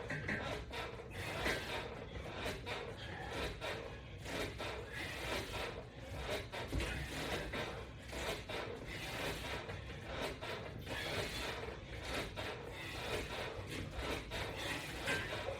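Exercise equipment rubbing and creaking irregularly under repeated resistance-band crunches on a bench, with short knocks and clicks throughout.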